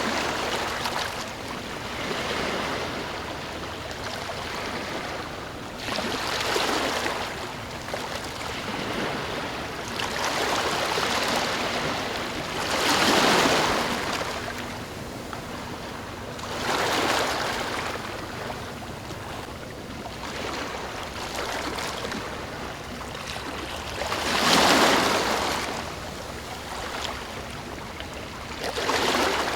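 Ocean waves washing in, a steady hiss that swells every few seconds as each wave breaks. The biggest surges come about a third of the way in and again near the end.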